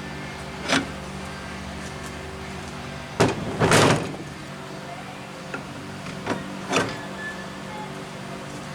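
Metal parts being handled on a workbench: a few sharp clicks and knocks, and a louder, short scraping clatter about three and a half seconds in, over a steady background hum.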